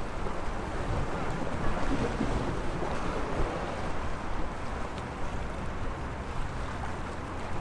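Sea waves washing onto the shore, a steady rushing wash that swells a little a couple of seconds in, with wind rumbling on the microphone.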